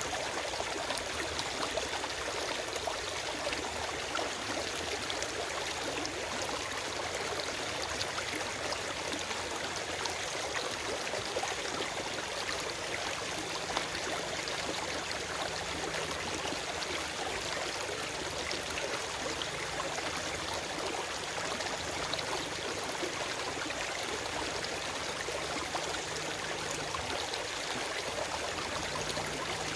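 Forest stream flowing steadily over rocks, a continuous rush of water with small gurgles and trickles, without birdsong.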